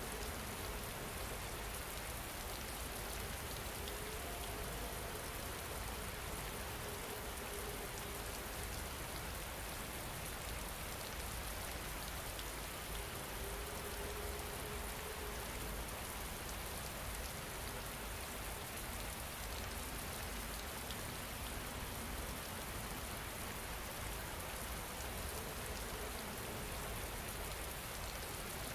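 Steady rain falling on a surface, an even patter without a break. A faint wavering tone drifts in and out a few times beneath it.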